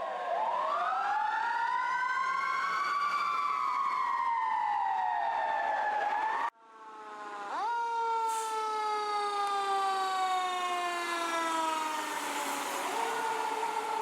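Fire apparatus sirens wailing, the pitch sweeping slowly up and down. About halfway through, the sound cuts out abruptly, then a siren winds up sharply and falls away slowly over several seconds before rising again near the end.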